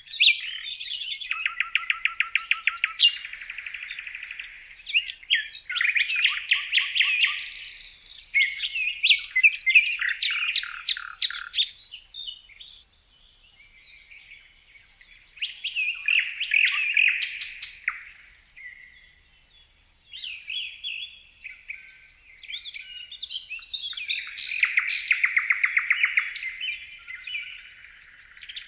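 Songbird singing in long phrases of rapid trills and chirps, with short pauses between phrases.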